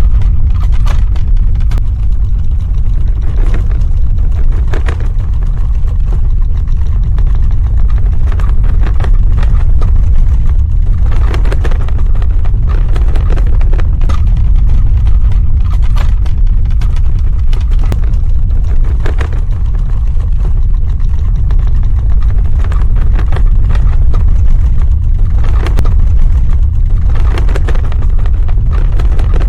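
Earthquake sound effect: a loud, continuous deep ground rumble, with irregular bursts of crackling and rattling every few seconds.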